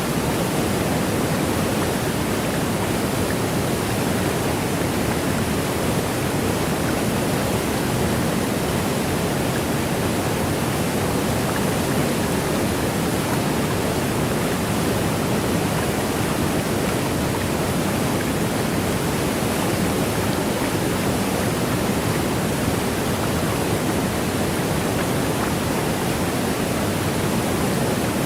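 Waterfall: a steady, unbroken rush of falling water with no changes or separate events.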